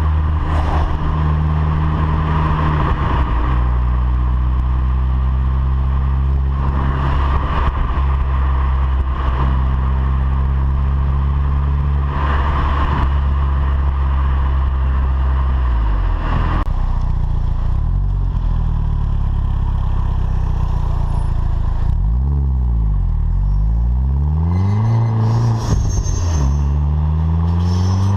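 VW Polo 9N3 GTI's 1.8-litre turbocharged four-cylinder running through its stock exhaust: engine speed held steady with several step changes in pitch, then the revs fall and rise again twice near the end.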